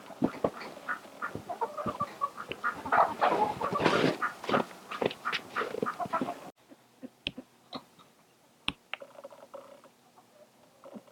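Chickens clucking and calling in a busy chorus, with sharp pecking-like clicks. About six and a half seconds in it cuts off suddenly to a much quieter stretch with a few sharp ticks.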